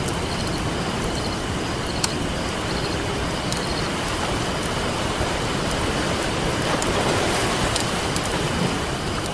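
Campfire wood crackling with occasional sharp pops over a steady wash of ocean surf, which swells a little about seven seconds in.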